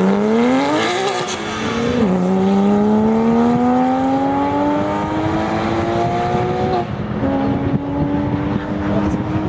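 Sports car engine accelerating hard: revs climb, drop with an upshift about two seconds in, climb slowly again for several seconds, then settle to a steady pitch near the end.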